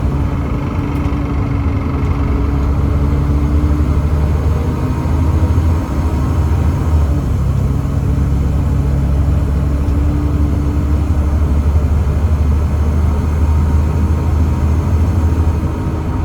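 The Volvo D7C 7.3-litre six-cylinder diesel of a Volvo B7TL double-decker bus running with a steady low drone, its pitch holding nearly level.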